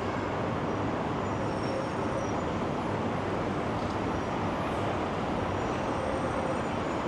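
Steady city street ambience: a constant wash of traffic noise with no break, and a few faint, short, high-pitched squeaks scattered through it.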